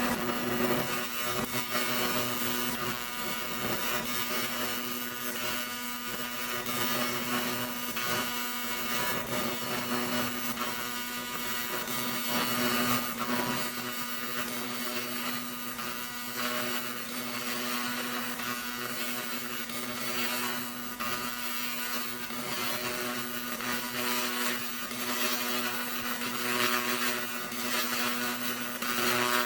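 Pulsed fiber laser cleaner (1000 W) stripping thick paint: a dense crackling hiss as the coating is ablated, over a steady hum from the machine.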